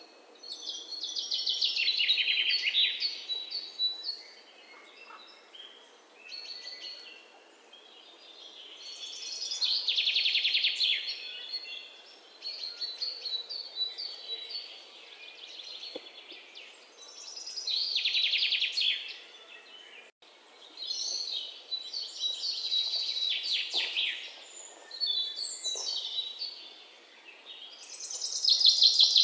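Songbirds singing: a loud, rapid trilled song repeated about every eight seconds, with softer chirps in between.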